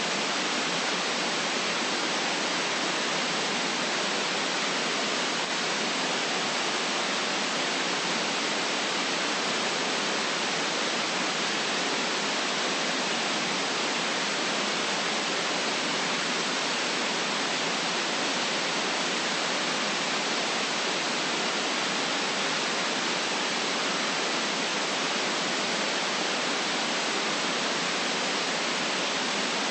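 Steady synthetic white noise: an even, unchanging hiss with nothing low in it, for sleep or masking background sounds.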